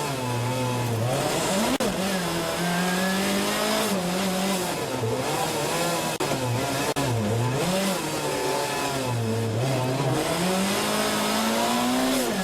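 A Group B-era rally car's engine driven hard on a stage, its pitch climbing and dropping again and again as the driver shifts gears and lifts off.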